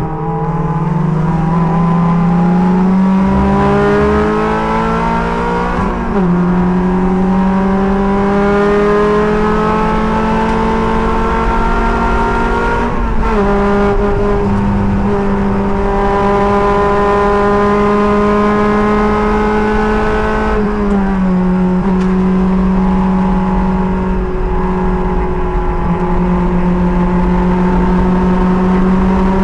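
A race car's engine pulling hard under full throttle, heard from the driver's seat. It climbs in pitch through the gears, with quick upshifts about 6 and 13 seconds in, then runs at a high, nearly steady pitch with a brief dip about two-thirds of the way through.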